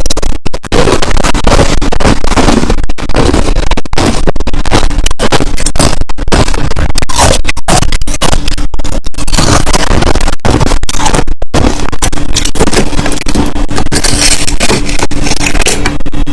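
Loud, close-up crunching and grinding of crushed ice being chewed, continuous and dense with many brief breaks.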